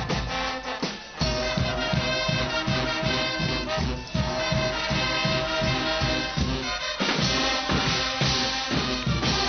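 Guggenmusik band playing live: trumpets and trombones over a steady drumbeat. The sound turns brighter and fuller about two-thirds of the way through.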